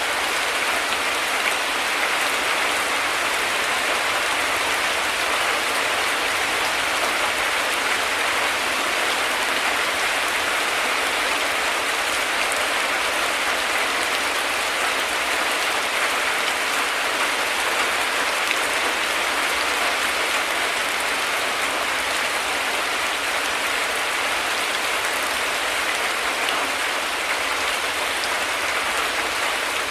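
Heavy rain falling steadily, an even hiss of drops without break or thunder.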